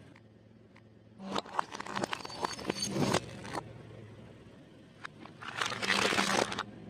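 Close-up eating and food-handling noises: crackly crinkling and crunching in two stretches, about a second in and again near the end, over a faint low hum.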